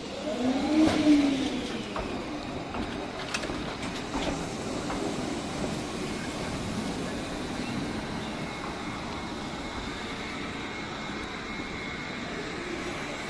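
Shizuoka Railway 1000 series electric train rolling slowly past: a short rising-and-falling tone about a second in is the loudest moment, followed by a few clacks of wheels over rail joints and points. Steady running noise with a faint high whine follows.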